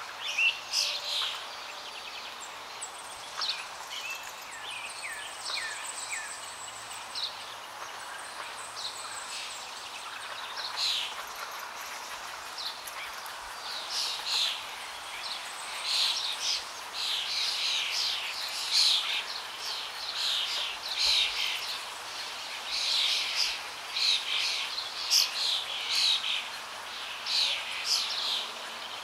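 Birds chirping: many short, high calls overlapping, sparse at first and much busier in the second half, over a steady background hiss.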